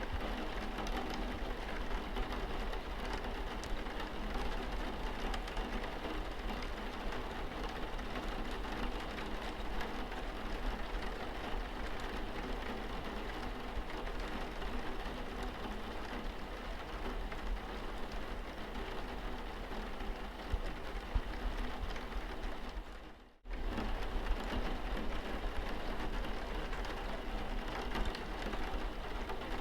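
Steady rain pattering on a car windscreen, with a brief dropout about three-quarters of the way through where the sound fades away and cuts back in.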